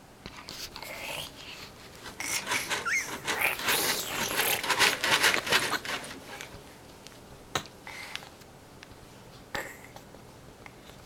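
A 6.5-month-old baby huffing and panting in quick breathy bursts, busiest in the middle, with a short squeak about three seconds in.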